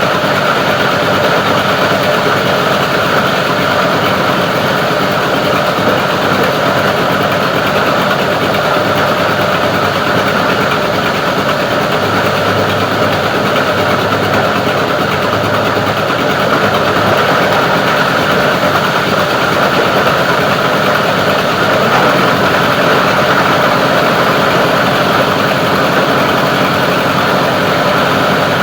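Plastic recycling grinder machine running steadily with a continuous loud mechanical drone.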